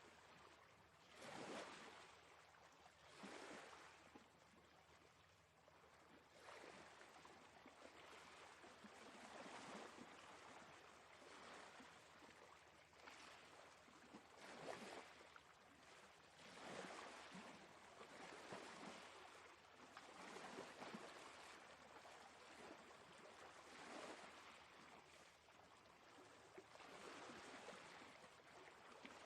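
Faint sea waves washing in, an even hiss of surf that swells and eases every two to three seconds.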